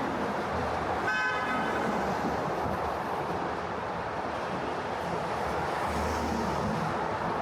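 Steady city street traffic noise, with a single short car horn toot about a second in.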